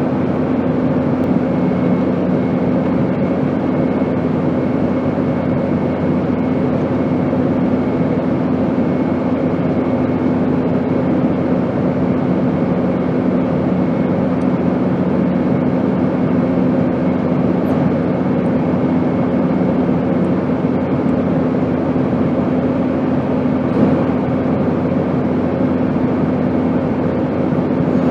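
Steady airplane engine noise: an even, unchanging rush with a constant low hum beneath it.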